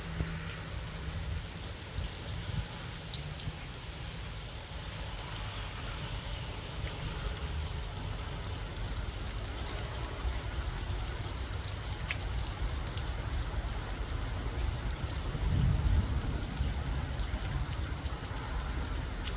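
Snowstorm sound: a steady hiss of falling precipitation with scattered light ticks, over a low rumble that swells about sixteen seconds in.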